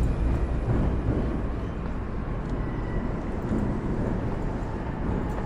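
Steady outdoor city ambience: a constant deep rumble under an even hiss, with no distinct events.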